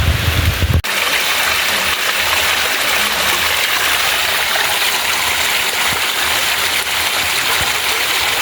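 Wind buffeting the microphone for about the first second, then a sudden cut to a steady rush of running water.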